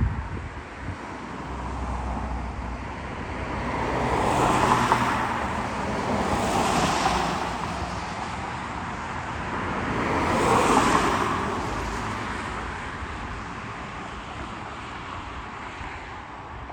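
Road traffic: vehicles passing one after another, the rush of tyres swelling and fading three times.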